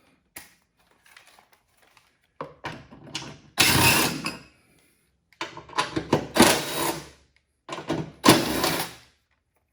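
A power driver with a 10 mm socket running in three bursts of about two seconds each, backing out the three bolts that hold the plastic belt cover on a John Deere LA105 mower deck.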